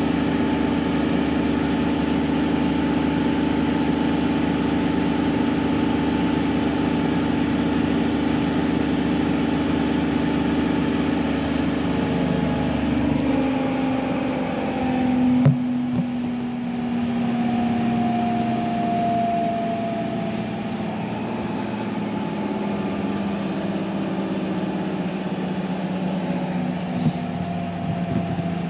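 Hotpoint Active Care washing machine's drum motor spinning with a steady hum. About halfway through its pitch glides down as the drum slows, and a single knock follows before it runs on at the lower speed.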